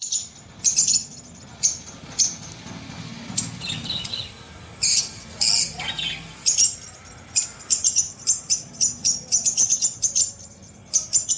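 Small birds chirping: many short, high chirps, coming faster and closer together in the second half.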